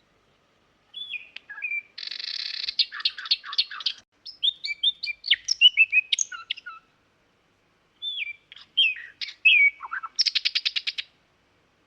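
Nightingale singing: varied whistled and warbled phrases split by short pauses, ending in a fast run of repeated notes.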